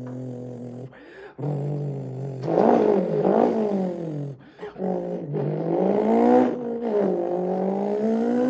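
A man's voice imitating a Zenvo TSR-S supercar engine, a held hum that climbs and falls in pitch like revs through the gears. It breaks off briefly about a second in and again a little past four seconds.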